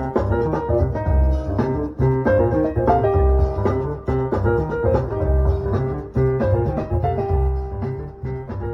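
Instrumental music with piano, guitar and a deep bass line played back through a DIY 3D-printed subwoofer and car speakers, with heavy low bass notes about every two seconds.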